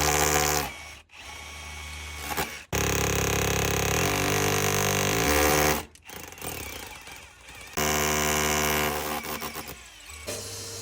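Power drill boring the fixing holes for wall plugs in the wall behind an outside tap. It runs in several bursts, the longest about three seconds, and the motor speed changes within them.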